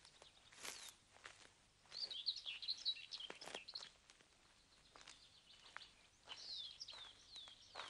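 Birds chirping: quick high chirps and short downward-sliding whistles in two bursts, about two seconds in and again near the end, with faint scattered footsteps.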